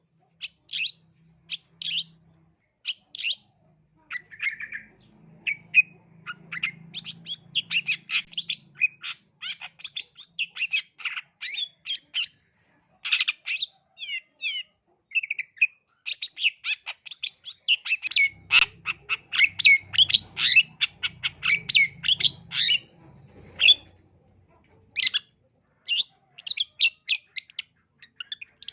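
Long-tailed shrike (cendet) singing in full song: rapid, varied runs of sharp chattering and whistled notes with short pauses between phrases.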